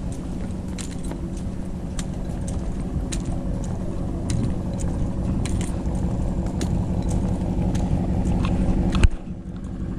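Dodge Challenger engine running at idle with a steady low hum, slowly growing louder, with scattered light clicks over it. There is a sharp knock about nine seconds in, after which the sound is quieter.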